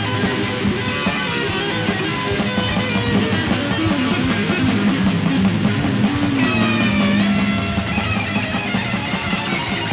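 Instrumental passage of Greek black metal: distorted riffing over drums, with a high lead line coming in about six and a half seconds in and bending down in pitch.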